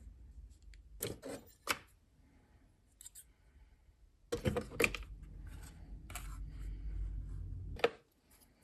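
Hands working on a laptop being taken apart: sharp clicks and taps, with rubbing and scraping between them. There is a low rumble from about four seconds in until a last click near the end.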